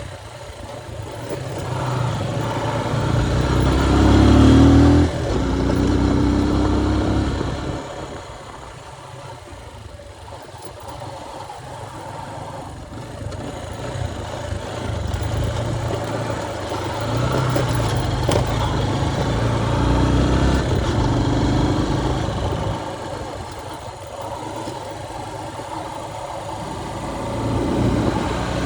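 Motorcycle engine under way, revving up with a rising note and dropping sharply at a gear change about five seconds in, then pulling and easing off in swells, over a steady rushing noise.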